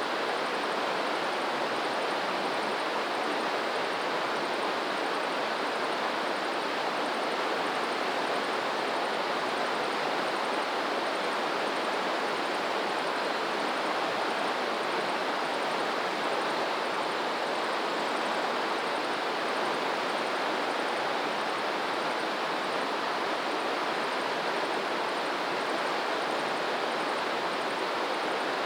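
Steady rush of flowing water, even and unbroken, without the rise and fall of breaking waves.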